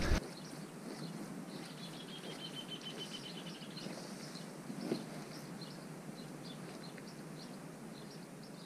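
Small birds chirping faintly, with one bird giving a rapid trill of evenly spaced high notes for about two seconds, starting about two seconds in. A single small knock comes about five seconds in.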